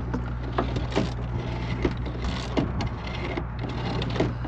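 Irregular sharp clicks and knocks of hand tools and parts being handled while screws are tightened, roughly two a second, over a steady low hum.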